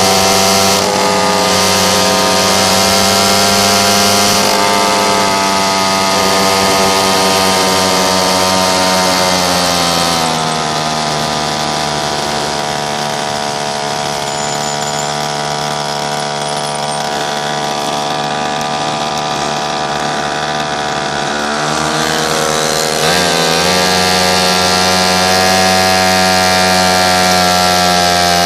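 Pocket bike's small engine running at high revs with a buzzy, chainsaw-like tone, easing off about ten seconds in and revving back up to its earlier pitch a few seconds before the end.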